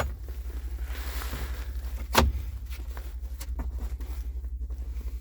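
Steady low pulsing rumble of an idling engine, with one sharp knock about two seconds in and a few light clicks as parts are handled.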